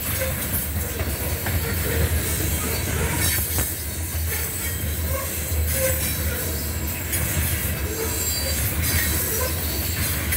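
Freight train of covered hopper cars rolling past: a steady rumble of steel wheels on the rails, with occasional faint clicks and brief squeals from the wheels.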